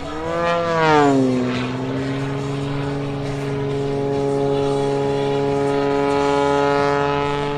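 Propeller and piston engine of an MXS-RH aerobatic monoplane running hard in flight; the pitch swells and then drops about a second in, then holds steady.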